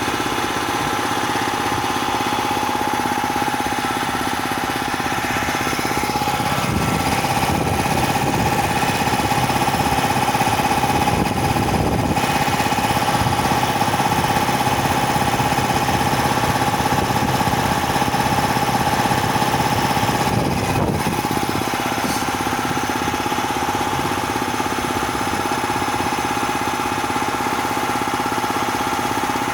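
Bauer high-pressure (330 bar) piston compressor running steadily with a constant whine over its mechanical beat. It grows somewhat louder and heavier from about seven seconds in until about twenty-one seconds in.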